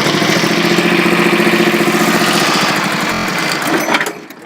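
Small tractor engine running steadily, then winding down and stopping near the end.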